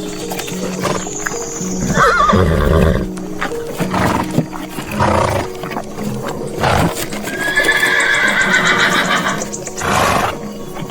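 Horse neighing several times over steady background music, the longest a wavering whinny in the second half.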